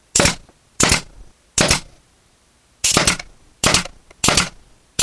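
Pneumatic brad nailer firing nails into pallet-wood boards, six sharp shots about a second apart with a longer pause in the middle, each with a brief hiss or ring after it.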